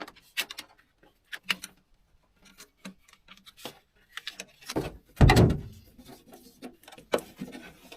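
Scattered clicks and knocks of hands fitting a cover over electrical wiring, with one louder thump about five seconds in.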